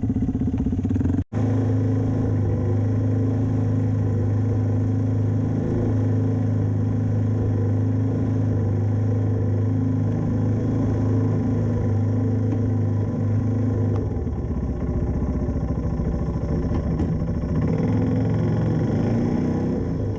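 1994 Yamaha Timberwolf 4x4 ATV's single-cylinder four-stroke engine running steadily while riding, with a momentary break about a second in; its note shifts about two-thirds of the way through.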